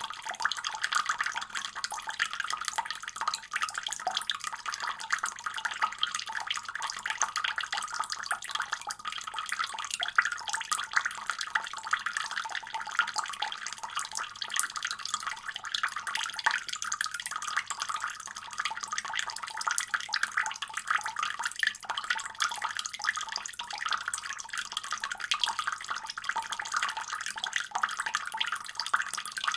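Water running steadily from a faucet, a continuous splashing stream with fine irregular spattering.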